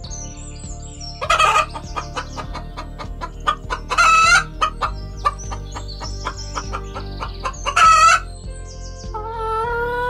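Chickens clucking, with three loud, short calls about one and a half, four and eight seconds in, and a longer rising call near the end.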